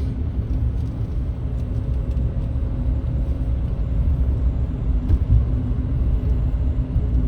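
Steady low rumble of a running vehicle, with a faint steady hum over it.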